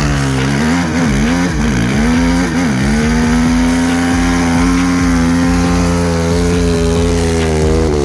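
Suzuki RM-Z450 single-cylinder four-stroke engine revving, blipped up and down several times over the first three seconds and then held at steady high revs, as when spinning the rear tyre to smoke it in a burnout.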